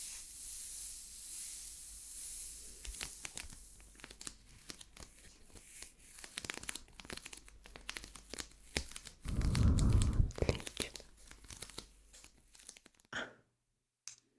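Close-up ASMR crinkling and crackling. A steady hiss at first gives way to dense, irregular crackles, with a louder muffled rub about nine and a half seconds in. The sound stops short about thirteen seconds in.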